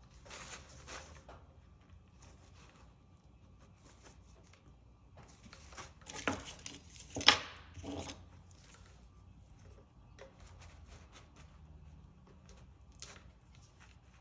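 Light handling noises of painting supplies: scattered clicks, taps and scrapes, loudest in a short cluster about six to eight seconds in.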